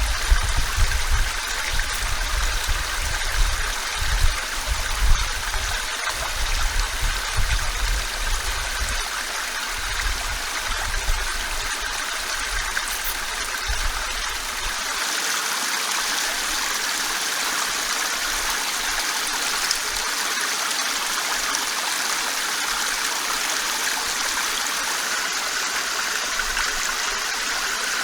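Running water of a stream, a steady rushing. Uneven low rumble in the first half stops about halfway, after which the rushing is smooth and even.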